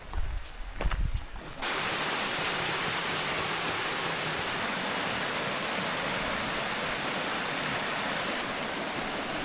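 A few footsteps on the trail, then steady rushing water from a mountain stream or small waterfall that comes in suddenly about a second and a half in.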